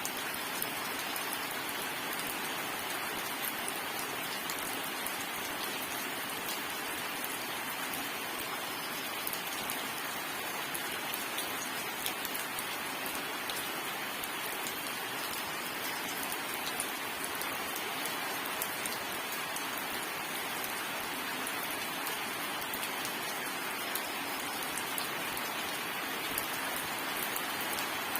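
Steady rain falling on a surface, an even hiss dotted with the patter of individual drops.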